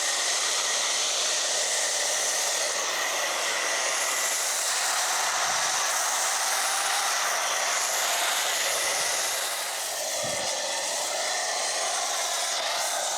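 Kranzle electric pressure washer spraying water in a steady, loud hiss as the foamed boat is washed; the spray sound shifts slightly about ten seconds in.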